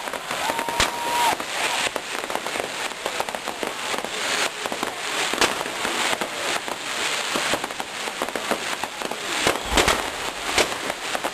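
Fireworks display: a dense, continuous crackling and popping, with sharp bangs scattered through it and a brief whistle near the start.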